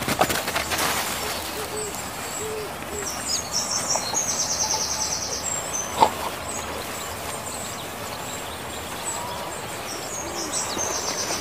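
Birds calling: high chirps and a fast trill, with a few short low hooting notes, over steady background noise. A single sharp knock comes about six seconds in.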